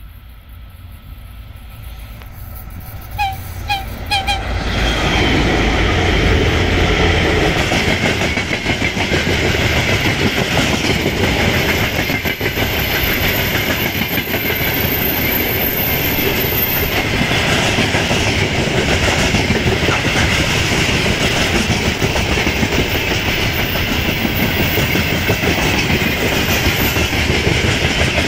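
Freight train hauled by a VL10K electric locomotive approaching and passing. The rumble rises at first, with three very short high tones about three seconds in. From about four seconds on there is a loud, steady rumble and clatter of wheels on rails as the wagons go by.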